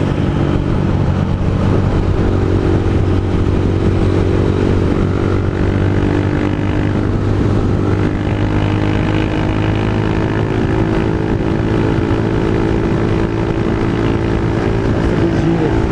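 Honda CG 160 Fan's single-cylinder engine with a Pro Tork GP Competition exhaust running steadily under way at an even cruising speed.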